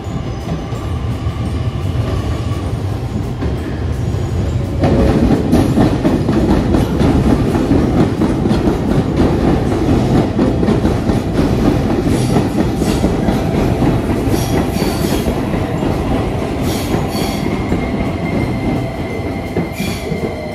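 A train running by on the rails at close range, growing louder about five seconds in. A thin, high wheel squeal comes in over the last few seconds.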